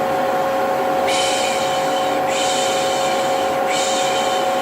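Vacuum cleaner running with a steady drone and motor whine. From about a second in, a person shushes 'pşşş' in three long back-to-back hisses, the 'piş piş' shush used to soothe a baby.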